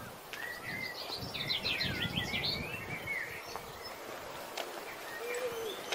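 A songbird singing one quick, varied phrase of whistles and trills lasting about two and a half seconds. Near the end comes a single low, arched note.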